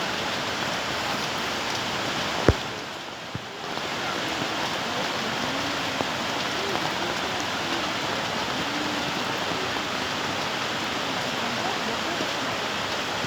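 Floodwater of a swollen river rushing steadily, with a sharp click about two and a half seconds in and a brief drop in the sound just after.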